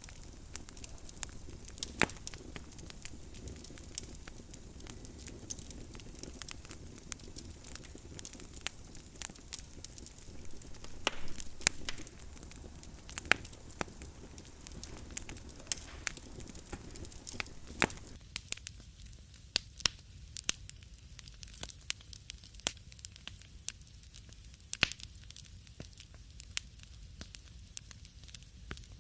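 Wood fire crackling in a fireplace: irregular sharp pops and snaps over a soft steady hiss. About 18 seconds in, the background hiss drops away abruptly while the pops go on.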